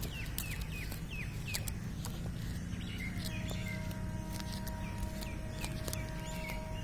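Birds calling in short, quick downward-sliding chirps over a steady low rumble. About three seconds in, a steady held tone at two pitches sets in and carries on to the end.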